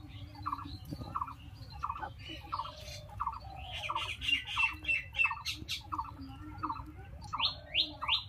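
Birds calling: one repeats a short note about twice a second, and a few quick falling chirps come near the end, over a faint low hum.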